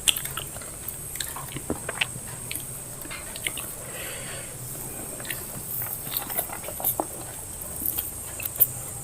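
People chewing and biting mouthfuls of biryani and salad, with scattered small smacks and clicks of eating.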